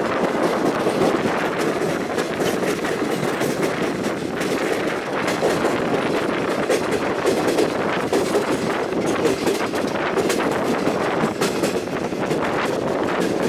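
Passenger train rolling over rail joints and switches, heard from an open carriage window: a steady rumble with irregular clicks.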